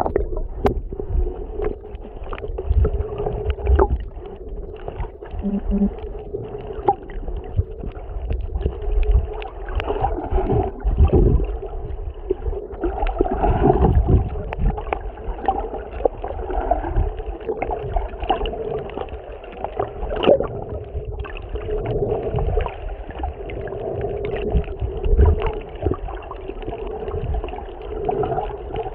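Muffled, irregular sloshing and gurgling of seawater heard through a camera filming underwater, over a steady low hum.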